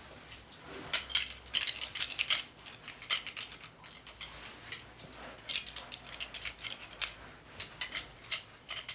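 Small metal objects clicking and jingling in short, irregular clusters.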